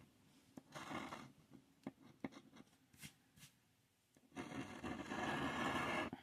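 Scratching the coating off a scratch-off lottery ticket: a short burst of scraping, a few light taps, then a longer stretch of scraping in the second half.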